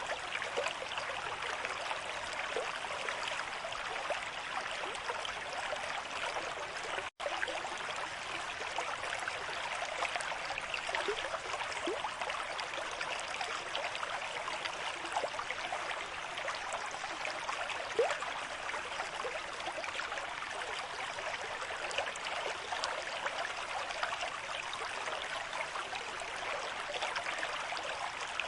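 Forest river stream at moderate flow: a steady rush of running water with small gurgles and splashes throughout. The sound cuts out for an instant about seven seconds in.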